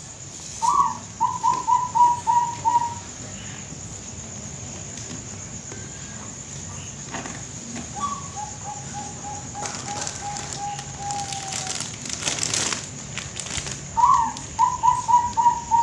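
Zebra dove (perkutut, Bangkok type) cooing: three phrases, each opening on a higher note and running into a quick string of short, evenly spaced coos. The middle phrase is longer and softer. A spell of scratchy noise comes between the second and third phrases.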